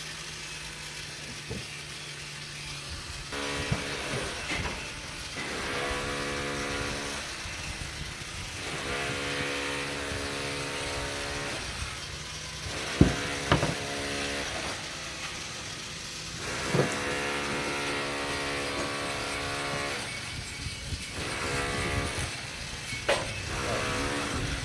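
A motor-driven machine running in repeated spells of a few seconds, holding a steady pitch, with a few sharp knocks around the middle and near the end.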